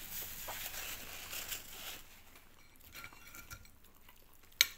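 Biting into and chewing a crispy-coated chicken wing: crackly eating noises for about two seconds that then fade to quieter chewing, with one sharp click near the end.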